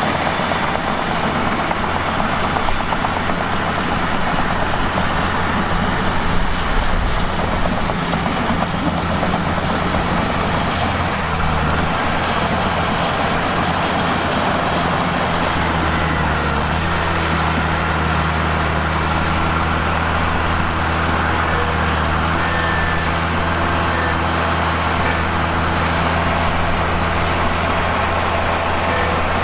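Mitsubishi bulldozer's diesel engine running steadily while working. Its note shifts about halfway through, then holds.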